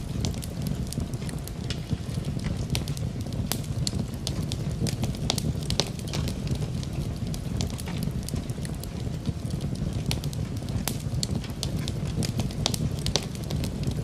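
Wood fire crackling in a fireplace, with frequent irregular pops and snaps over a steady low rumble, mixed with the even hiss of rain.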